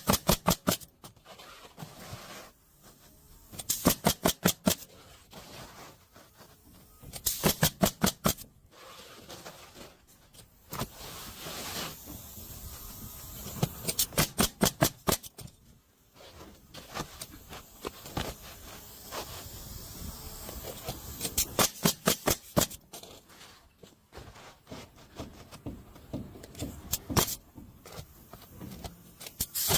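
Pneumatic roofing nailer fired in quick bursts: rapid sharp shots, about ten a second, each burst lasting about a second and coming every few seconds.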